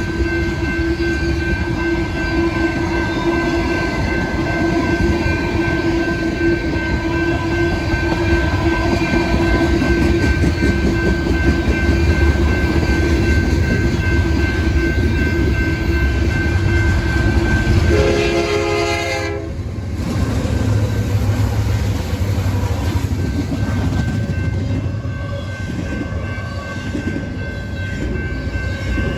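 BNSF freight train passing close, with a constant rumble and wheel clatter. A held horn tone runs through the first two-thirds and swells into a fuller chord just before it cuts off. The train rumble carries on afterwards.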